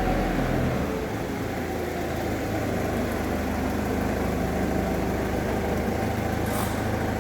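An engine running steadily at idle, with a short hiss near the end.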